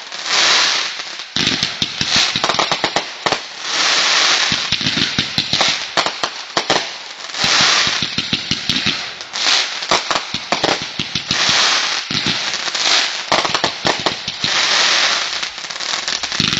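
Fireworks going off: a dense run of rapid sharp pops mixed with surges of hissing crackle, stopping abruptly near the end.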